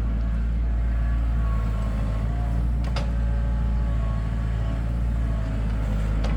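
Heavy diesel engine of construction machinery running steadily with a low hum, with a sharp clunk about halfway through and another near the end.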